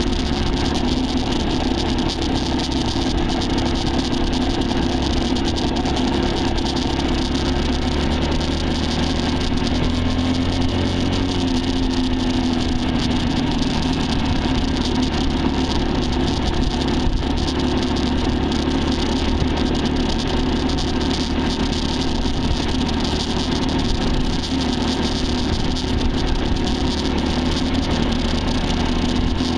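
Dirt bike engine running steadily, its pitch dipping and rising briefly about ten seconds in.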